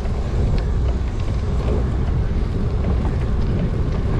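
Wind buffeting the microphone of a camera on a moving bicycle: a steady low rumble, with a few faint clicks.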